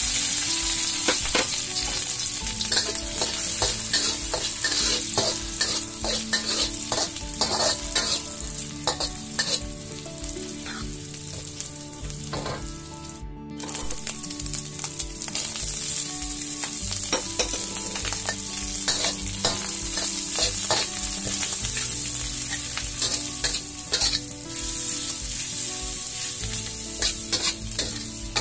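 Dried shrimp and chopped garlic sizzling as they go into hot oil in a wok, then frying steadily while a metal spatula stirs and scrapes them against the wok. The sizzle cuts out briefly about halfway through.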